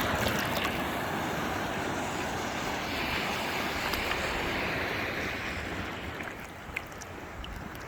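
Surf: a wave breaking and its whitewash rushing in a steady hiss, easing off near the end.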